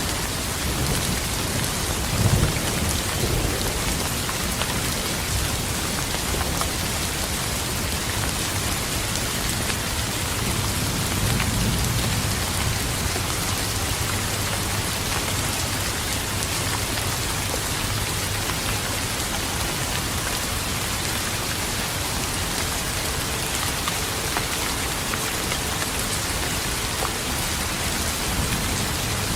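Steady rain falling, with thunder: a sharp clap about two seconds in and a longer low rumble a little before halfway.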